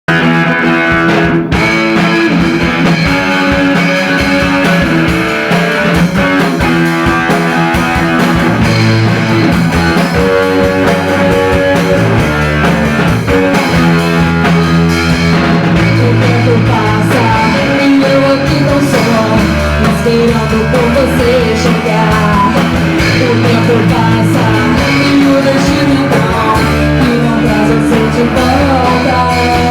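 Rock music from a band with guitar, bass and drums, played loud and steady; a singing voice comes in about halfway.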